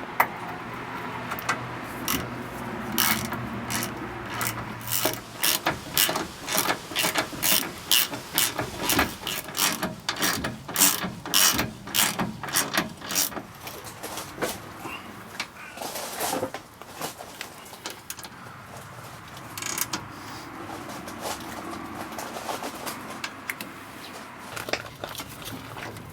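A long run of sharp mechanical clicks and clacks, irregular at a few per second, thickest in the first half and thinning out after. A low steady hum sounds under the first few seconds.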